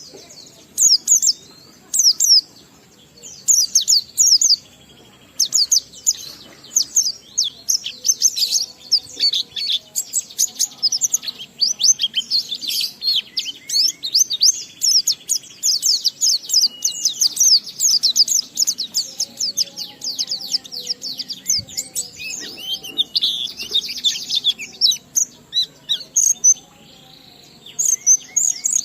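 A white-eye (pleci) singing: a few separate high chirps at first, then a long, unbroken run of rapid, high twittering notes, the continuous 'ngalas' song that pleci keepers prize.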